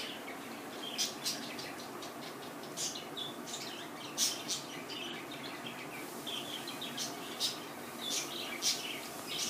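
Pet budgerigars chirping: short, high chirps come irregularly, with a handful of louder ones standing out, over a steady low background noise.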